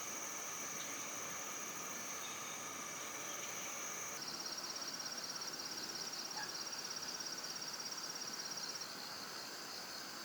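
Insects chirring in a steady, high, continuous drone. About four seconds in the sound switches abruptly to a slightly lower, rapidly pulsing insect trill, which settles back into a steady drone near the end.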